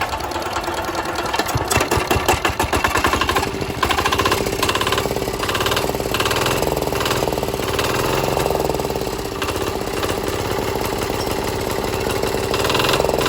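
China Z175F single-cylinder diesel engine running, with a fast even beat that is louder and rougher for the first few seconds and then settles to a steady run.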